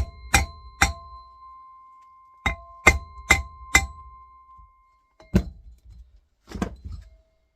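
Sharp metal-on-metal strikes on a cut-open steel compressor shell, each ringing on with a clear bell-like tone: three quick blows, then four more after a pause, then two duller ones near the end.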